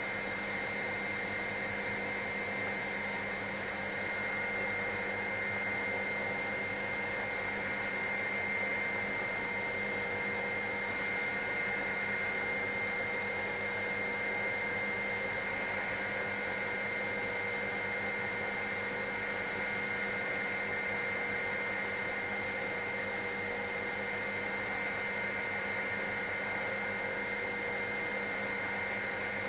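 Helicopter in flight, heard from inside the cabin: a steady engine and rotor drone with a constant high whine over it, unchanging throughout.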